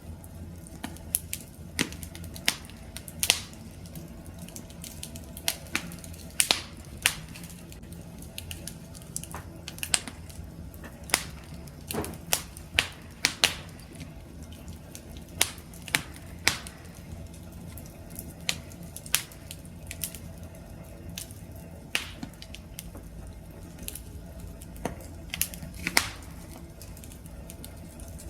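Wood fire crackling: irregular sharp pops and snaps from burning logs, a few a second at times, over a low steady rumble of the flames.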